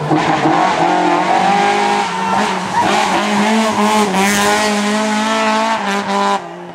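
Lada rally car's engine running at high revs through a corner, the pitch rising and falling with throttle and gear changes, with tyre scrabble on the surface; the engine note falls away near the end.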